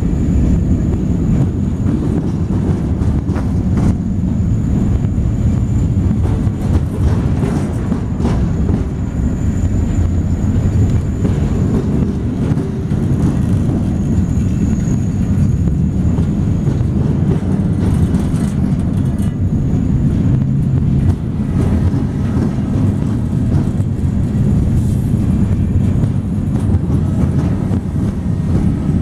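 Freight cars rolling past close by, a steady heavy rumble of steel wheels on rail with scattered clicks and clanks. A faint high whine comes and goes above it.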